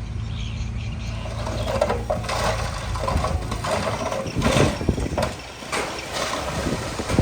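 Diesel engine of earthmoving machinery running steadily, with scattered metallic clanks and knocks over it.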